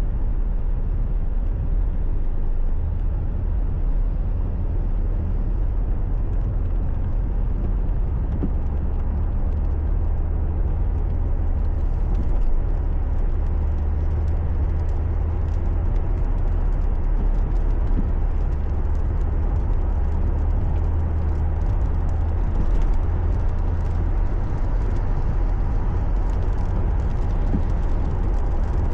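Steady low road and engine rumble of a car being driven, heard inside the cabin, with faint scattered ticks in the second half.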